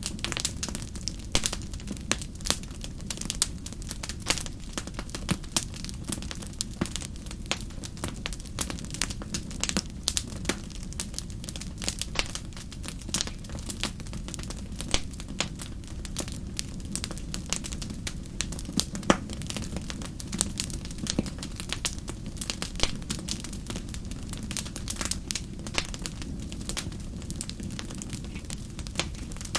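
Fire in a fireplace crackling steadily: many small irregular pops and snaps over a low, even rumble of the flames.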